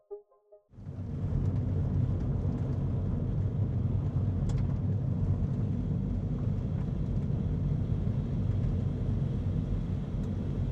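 A short soft keyboard music phrase ends under a second in. It gives way abruptly to a steady low rumbling noise at an even level, with a few faint ticks over it.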